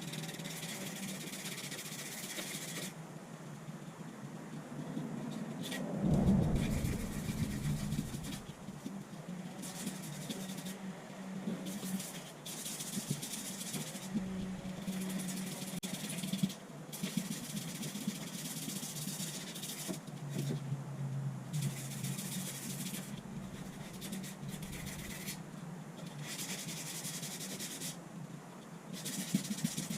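Sanding: a steady rubbing hiss that drops away and returns in stretches of a few seconds, with a louder low bump about six seconds in.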